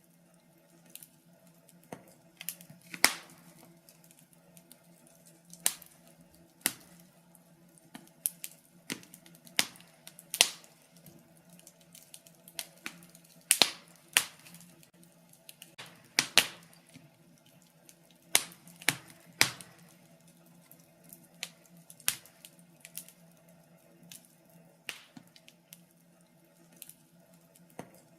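Wood fire in a fireplace crackling, with irregular sharp pops and snaps of varying loudness, roughly one or two a second, over a faint steady low hum.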